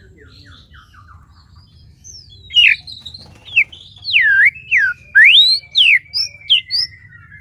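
White-rumped shama (murai batu) in breeding condition singing. Faint twittering gives way about two and a half seconds in to a run of about ten loud, clear whistled notes that sweep up and down.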